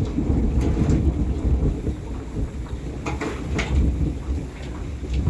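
Rainstorm: rain falling with a steady, loud low rumble of thunder or wind, and a few sharp taps of drops about a second in and around three seconds in.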